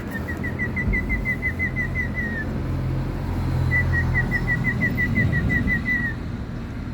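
Pet bird singing two runs of quick, evenly spaced whistled notes at one pitch, each run about two and a half seconds long and dropping slightly at its end, with a pause between them. A low steady rumble runs underneath.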